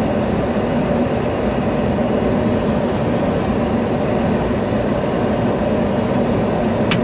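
Boeing 737 flight-deck noise on short final: a steady rush of airflow and engine noise with a low hum underneath. A brief sharp click comes near the end.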